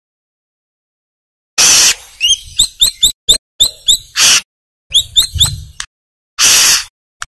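Brown-throated sunbird (kolibri kelapa) singing: a rapid run of sharp, rising chirps broken up by loud, harsh rasping notes, in short phrases separated by complete silence.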